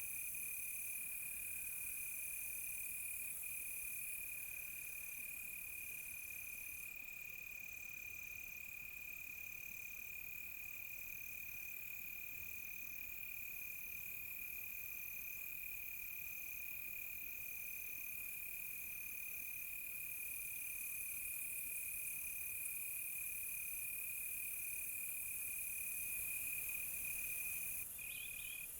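Night insect chorus of crickets: one steady high trill held throughout, a second insect chirping in even pulses about once a second, and a high hiss of further insects above them.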